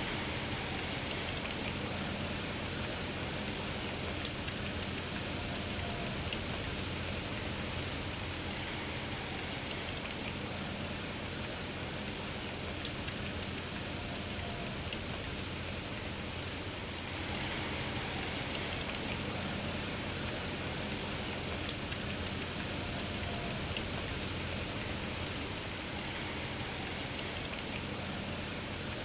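Steady rain falling, with three single drops striking sharply and much louder than the rest.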